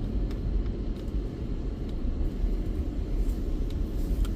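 Steady low rumble of a car driving slowly, with a few faint clicks.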